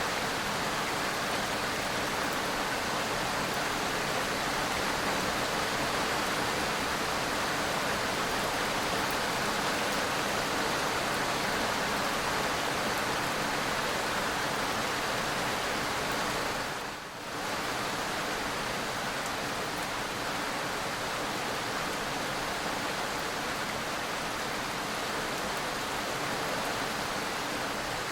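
Steady, even rain-like hiss of an ambience track, dipping briefly about seventeen seconds in.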